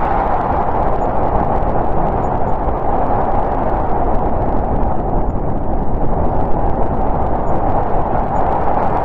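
Winter storm wind blowing steadily, a dense whooshing rush with a deep rumble under it and a slight swell and ebb.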